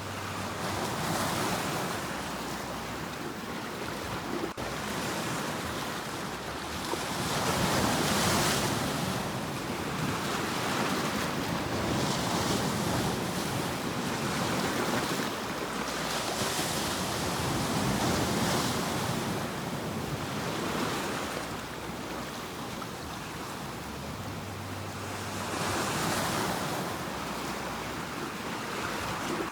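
Ocean surf: waves breaking and washing in, swelling and fading in slow surges every few seconds, with no music or voice.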